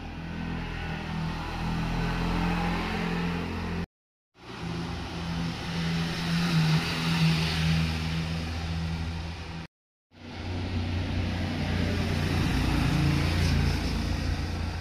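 Motorcycles riding past with their engines revving, the engine note swelling as each one approaches. This comes as three short passes, broken twice by a brief dead silence.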